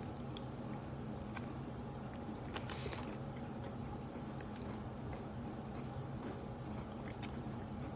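Chewing fried chicken: scattered soft mouth clicks and a few brief crunchy crackles, over a steady low hum.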